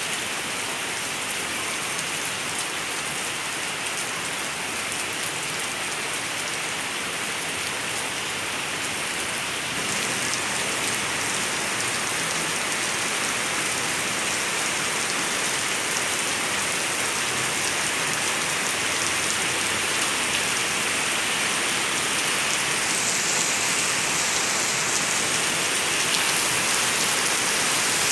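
Steady rain falling on a surface, a dense hiss with scattered drop ticks. It grows a little louder about ten seconds in and brighter near the end.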